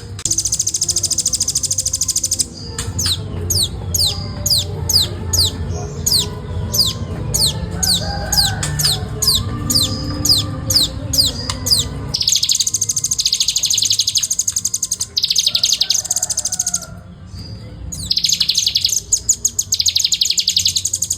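Nuthatch singing a fast, tightly spaced rattling song: rapid high trills, broken in the middle by a run of sharp falling notes at about two a second, then the dense trills return with a short pause near the end.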